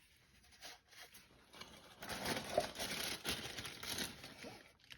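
Crinkling and rustling that starts about two seconds in and lasts nearly three seconds, with a scatter of small ticks and crackles.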